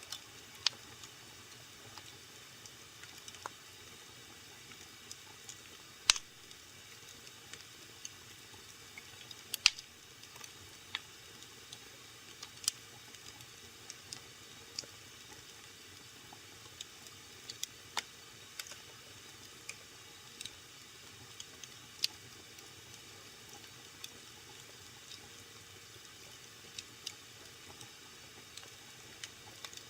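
Wood fire burning in a fireplace: a soft steady hiss with irregular sharp crackles and pops, the loudest two at about six and ten seconds in.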